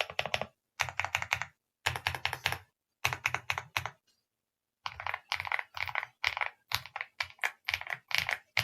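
Typing on an AULA F75 Pro mechanical keyboard with pre-lubed Reaper switches: quick runs of keystrokes in short bursts, a pause of under a second about four seconds in, then a steadier run of key presses.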